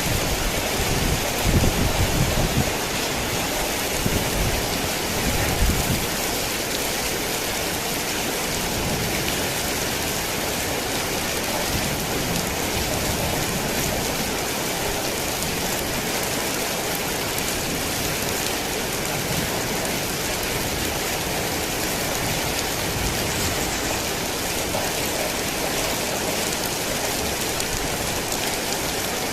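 Heavy rain falling steadily, with low rumbles of thunder during the first few seconds.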